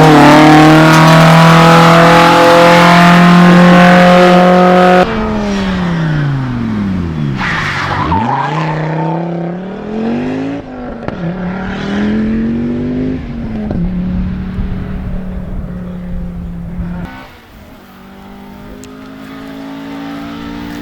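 Rally car engines at speed. A loud engine holds steady at high revs, then an abrupt cut about five seconds in brings another engine whose note falls and rises several times as it lifts off and accelerates, and near the end a quieter engine slowly rises in pitch.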